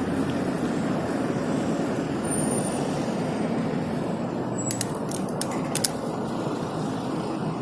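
Steady rumble of traffic and wind noise while riding a bike along city streets, with a quick run of sharp clicks about five seconds in.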